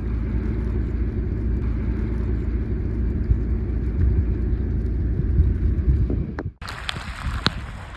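Steady low rumble of a road vehicle running. About six and a half seconds in it cuts off abruptly, replaced by an even hiss with scattered clicks.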